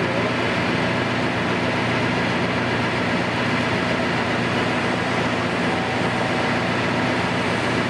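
Engine of heavy construction machinery running steadily at an even pitch.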